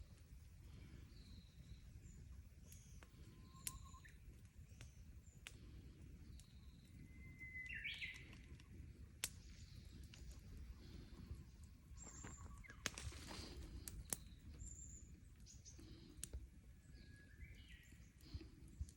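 Outdoor ambience: small birds chirping and whistling faintly here and there over a steady low rumble, with a few sharp clicks scattered through.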